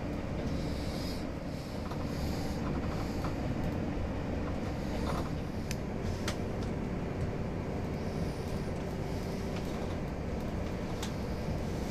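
Passenger train running on the rails: a steady low rumble with a few sharp clicks, and a steady hum joining about halfway through.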